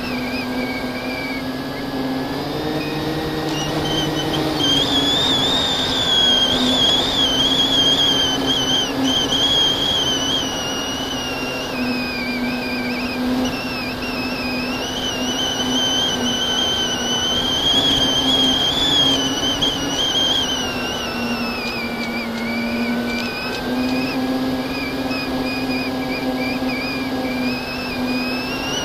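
FPV drone's motors whining in flight, the high pitch rising and falling slowly as the throttle changes, over a steady lower hum.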